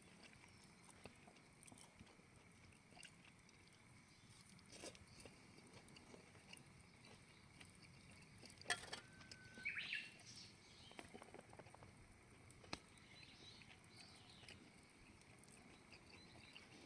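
Near silence: faint room tone with a few scattered small clicks, the clearest about nine seconds in, followed by a brief faint chirp-like sound.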